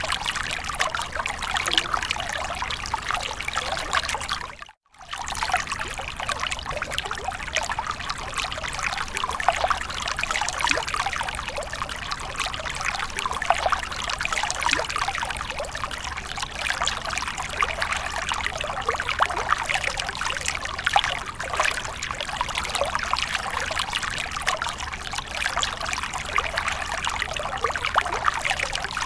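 Water splashing and trickling continuously in a dense patter of small splashes, cutting out briefly about five seconds in before carrying on.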